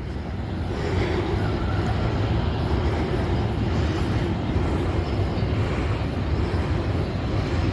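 Wind buffeting the camera microphone: a steady, low rumbling roar with no clear pitch.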